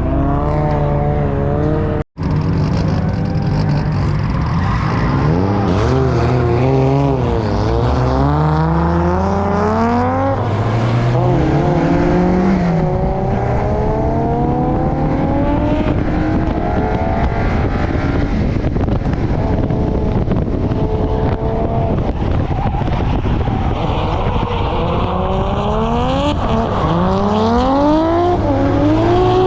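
Nissan Primera P10's engine pulled hard on a racetrack, its pitch climbing through each gear and dropping back at every shift, over and over. The sound cuts out for an instant about two seconds in.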